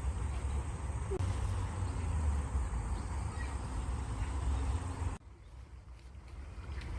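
Outdoor ambience of running water: a steady rushing noise with a strong low rumble, and a few faint bird chirps. The noise drops abruptly about five seconds in, then slowly builds back up.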